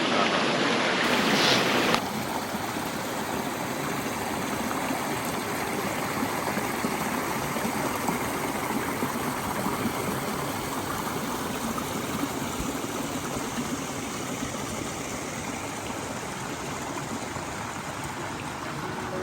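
Rushing water of a waterfall and its stream, a steady wash of noise that is a little louder for the first two seconds.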